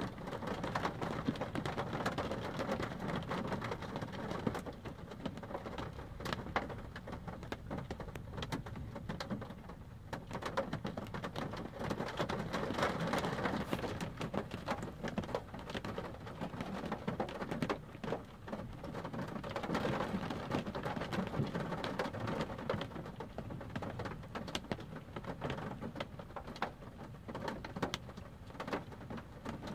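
Rain pattering steadily on a car's roof and windshield, heard from inside the car, with low rumbles of thunder that swell and fade a few times.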